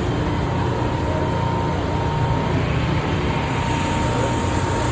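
Mori Seiki NH4000DCG horizontal machining center running, a steady low mechanical hum with a thin constant whine.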